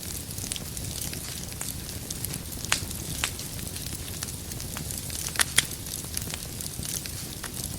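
Wood fire crackling in a fireplace: a steady low rumble of flames with irregular sharp pops of burning firewood, the loudest pops a little under three seconds in and again around five and a half seconds.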